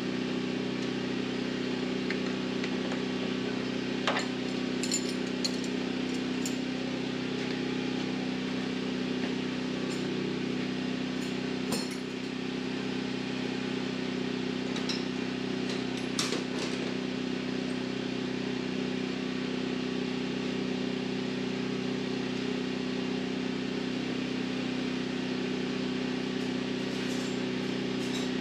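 A steady low mechanical hum, with a few light metallic clinks of hand tools against metal scattered through it.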